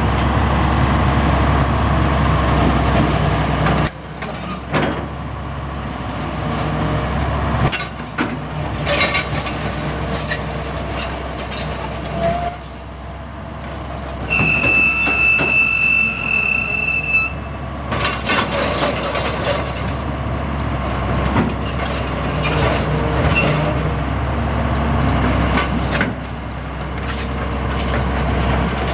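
2002 John Deere 270LC excavator running, its diesel engine humming under changing hydraulic load, with metal clanks and squeaks from the working machine. The engine drops off about four seconds in and again near the end, and a steady high whine sounds for about three seconds midway.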